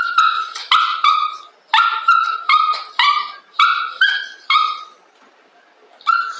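A small dog barking in short, high-pitched yaps, about ten in quick succession, then a pause and one more yap near the end.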